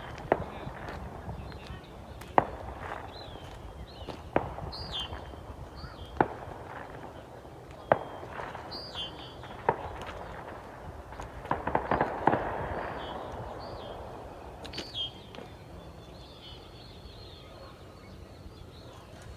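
Birds chirping in short calls, while a sharp crack or knock of unknown source sounds about every two seconds, with a brief cluster of them about twelve seconds in.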